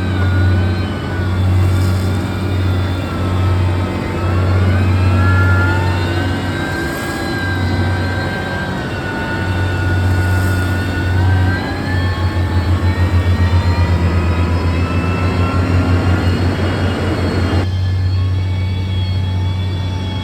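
Heavy construction machine's diesel engine running under load, its pitch rising and falling. Past the middle it throbs with a fast, even pulsing for several seconds, and near the end its higher whine cuts off suddenly, leaving the low drone.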